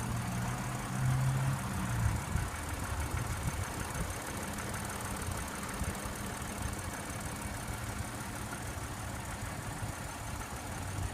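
Car engine idling with a steady low hum that is strongest for the first two seconds and then settles lower.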